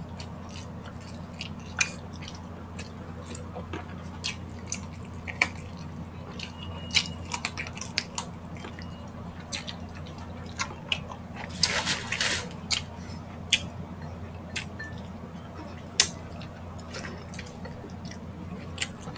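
Close-miked eating sounds of grilled street-food meat being chewed: wet mouth clicks and lip smacks scattered throughout, with a denser run of them about twelve seconds in.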